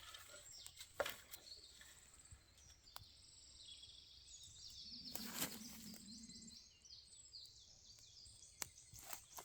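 Faint bird song, runs of short high repeated notes, with scattered clicks and a louder rustle about five seconds in.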